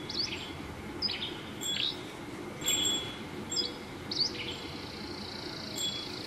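Small birds chirping: a string of short, sharp high calls and brief whistled notes, with a longer high note through the last two seconds, over a steady low background noise.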